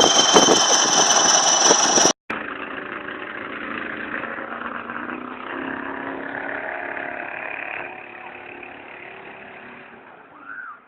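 Vehicle engines running in two joined clips. A loud first stretch with a steady high whine is cut off about two seconds in, followed by a quieter engine hum that fades toward the end.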